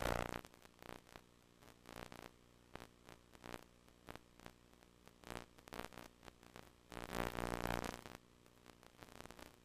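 VHS HiFi audio buzz from a damaged tape: a low, steady buzz broken by short crackles of static and hiss. A louder surge of noisy buzz comes right at the start and again about seven seconds in.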